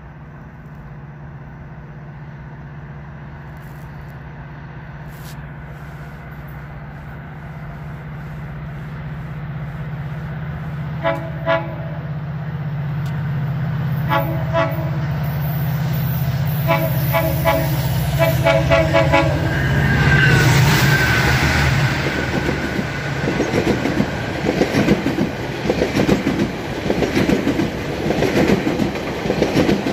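GO Transit diesel commuter train approaching, its engine drone growing steadily louder, and sounding its horn in several short blasts about halfway through. In the last third it passes close by, its wheels clattering over the rail joints.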